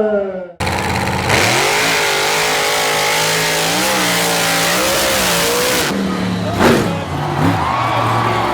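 Monster truck engine running at high revs, its pitch rising and dipping, starting with an abrupt cut about half a second in, with a short loud burst near the end.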